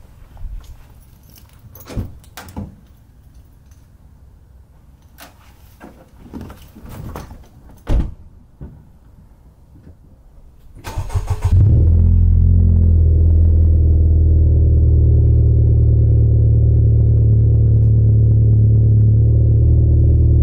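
A few scattered clicks and knocks, then about eleven seconds in the Honda Civic Type R FK8's turbocharged 2.0-litre four-cylinder cranks, catches on a cold start and settles into a loud, steady idle.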